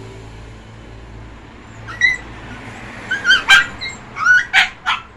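A dog whimpering and yipping in a run of short, high-pitched cries, beginning about two seconds in.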